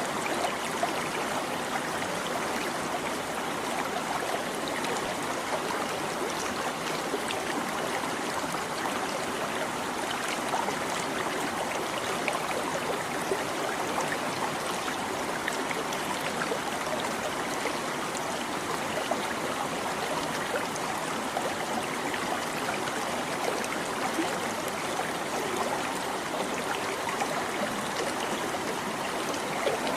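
A small stream babbling and trickling steadily over stones.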